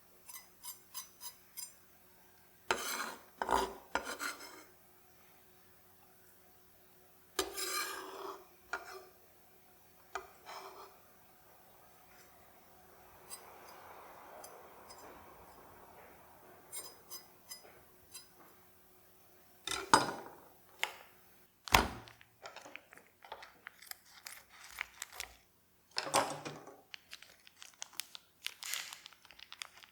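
Kitchen utensils and cookware clinking and clattering in irregular bursts while cooking, with two sharp knocks about two-thirds of the way through and a soft rushing noise in the middle. A faint steady hum runs underneath.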